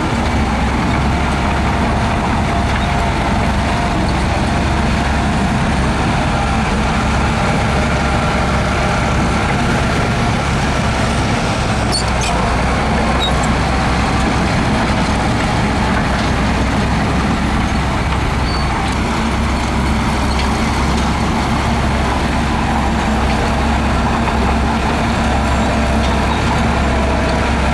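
Heavy diesel earthmoving machinery running steadily at working speed, a continuous low engine drone without pauses, with a few faint clicks about twelve seconds in.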